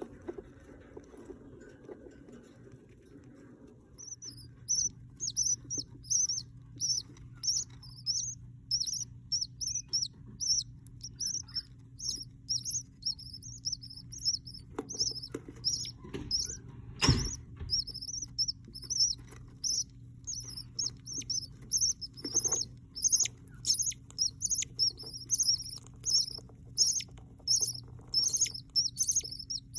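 Baby budgerigar chicks cheeping in a steady string of short, high peeps, about two a second, starting a few seconds in. There is a single sharp knock about halfway through, over a steady low hum.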